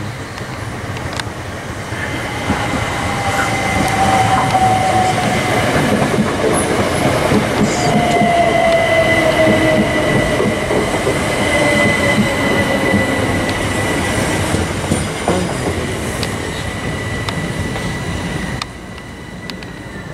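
Southern Class 377 Electrostar electric multiple unit running along the platform, growing louder after about two seconds. Over the rumble of the wheels there is a steady high squeal and lower tones that slowly fall in pitch. The sound drops off abruptly about a second before the end.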